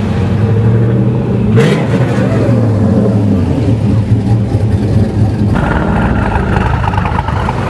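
V8 sports car engines running and revving as the cars accelerate past, among them a Chevrolet Camaro SS. A short sharp crack comes about one and a half seconds in, and the engine sound changes abruptly about five and a half seconds in.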